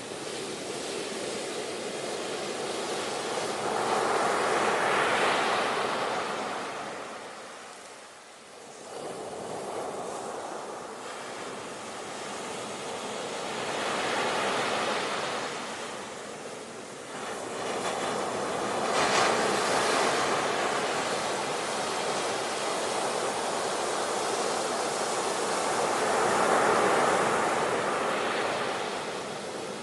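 Ocean surf: waves rolling in and washing back, the sound swelling and fading every several seconds, with the strongest surges about five seconds in, around twenty seconds and near the end.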